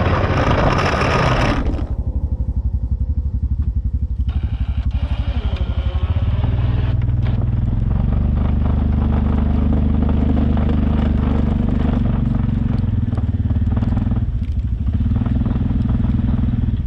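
Jeep engine running steadily with a low rumble under a plow. A loud rushing noise cuts off abruptly about two seconds in.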